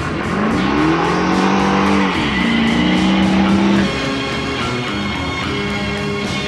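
A car engine accelerating hard: its pitch climbs for about two seconds, drops at a gear change, then holds steady before fading out about four seconds in. Rock music with guitar and a steady beat plays over it throughout.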